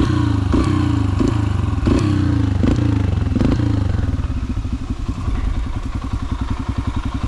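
Yamaha TT-R125 pit bike's single-cylinder four-stroke engine revving in quick repeated throttle bursts, each falling off in pitch with a knock, about every 0.7 s. About four seconds in it settles into slower, lower, even running.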